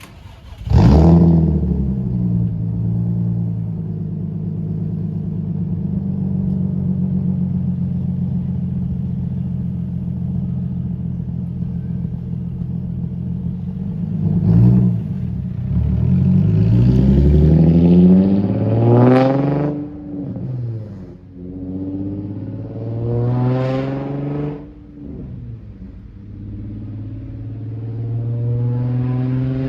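Infiniti G35's 3.5-litre VQ35 V6 through an aftermarket exhaust. It starts about a second in with a loud flare, settles into a steady idle, then is revved several times in the second half, the biggest rev climbing high before dropping back.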